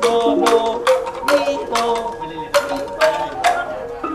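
A traditional Thai percussion ensemble playing: sharp strikes about twice a second over a pitched melody, with xylophone-like ranat notes and small ching cymbals.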